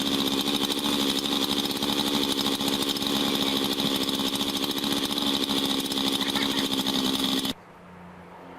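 Chainsaw running at a steady high speed, cutting into the trunk of a large pine. The sound cuts off abruptly near the end.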